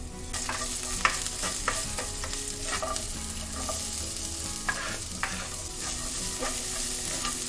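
Garlic and green chilli sizzling in a little hot oil with mustard seeds and cumin in a nonstick kadai, with a steady hiss and scattered taps and scrapes of a spatula. About halfway through, chopped onion is tipped in from a wooden chopping board and stirred through.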